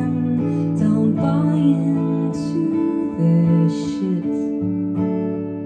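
Acoustic guitar strummed through an instrumental passage of a song, with sustained chords and a gliding melody line over them.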